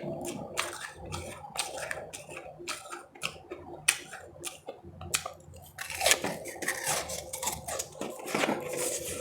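Powdery refrozen ice chips being bitten and chewed close to the microphone: irregular crisp crunches, several a second, growing denser and louder about two-thirds of the way through.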